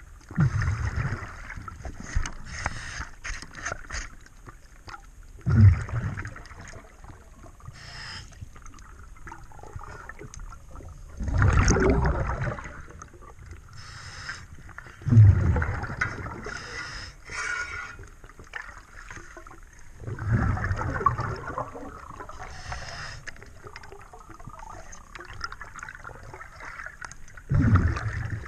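Scuba diver breathing underwater through a regulator: a loud gurgling rush of exhaled bubbles comes about every five seconds, with quieter breathing noise in between.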